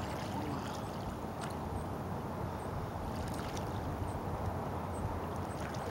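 Water washing and lapping around a small sailboat on a lake, a steady rush with a few small splashes.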